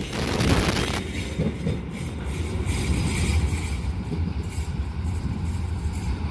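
Train passing on the rails, a steady low rumble of wheels and carriages, with a brief hiss in the first second.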